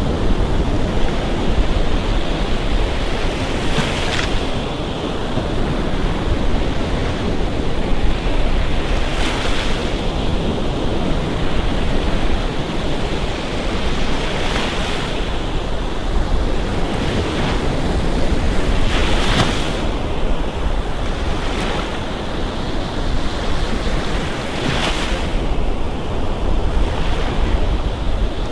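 Gulf Coast surf: waves breaking and rolling up the beach about every five seconds over a steady rush of water.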